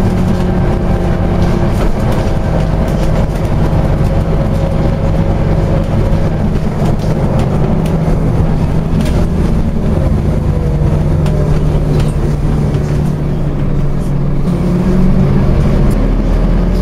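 Scania OmniCity double-decker bus's diesel engine running steadily as the bus drives, its pitch shifting a little as it changes speed.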